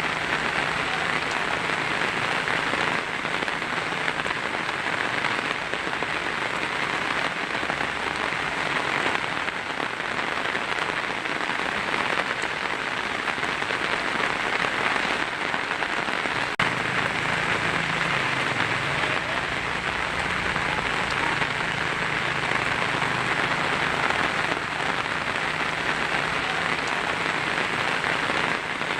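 Heavy rain falling steadily on a tin roof, an even hiss of many drops on the metal with no break.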